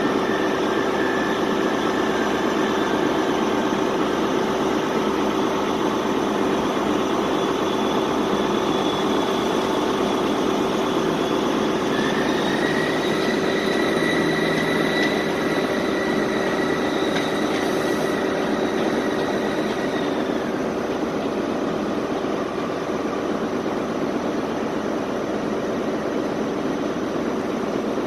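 A train standing at a station platform, its engine or onboard equipment idling with a steady hum. A higher whine starts about twelve seconds in, rising slightly, and stops about eight seconds later.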